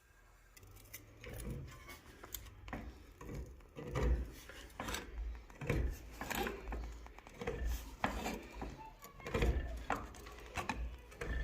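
Irregular knocks, clatter and scraping, roughly one a second, of metal work pieces and tools being handled and set down on a shop workbench.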